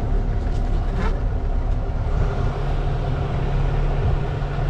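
Semi-truck diesel engine running at low revs, heard from inside the cab, with a short click about a second in.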